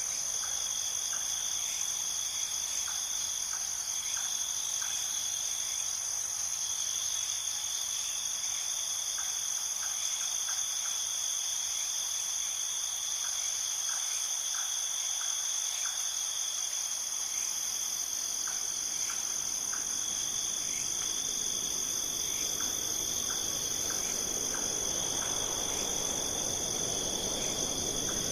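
Steady high-pitched insect chorus trilling without a break, with short chirps repeating every second or so. A soft rushing noise builds up over the last few seconds.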